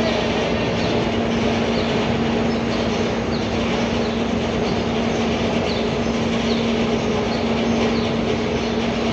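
A machine running steadily with a constant low hum, and short high squeaks repeating about once a second.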